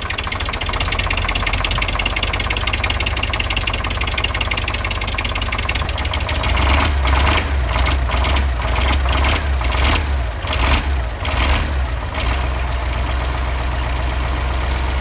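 KAMAZ 4310's V8 diesel running rough just after a cold start, with only some of its cylinders firing. From about six seconds in to about twelve, its beat surges unevenly and grows louder, then it settles into a steadier run. The owner blames the hard start on summer diesel still in the tank in freezing weather.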